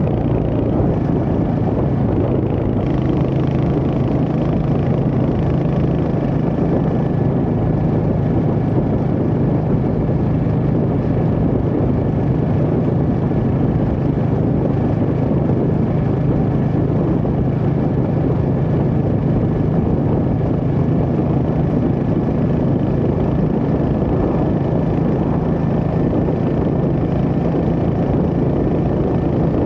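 Royal Enfield Hunter 350's single-cylinder engine running steadily at an even cruising speed, under a constant rush of wind and road noise.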